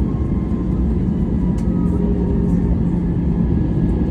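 Airbus A321-200 airliner's jet engines running steadily, a loud rushing noise with a steady low tone through it.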